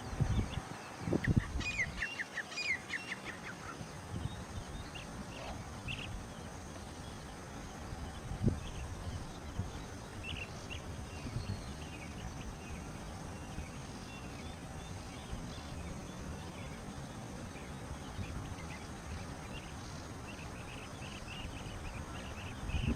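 Small birds chirping in scattered bursts of short high calls, busiest a second or two in, over a steady outdoor hiss. A few low thumps come near the start and again about eight seconds in.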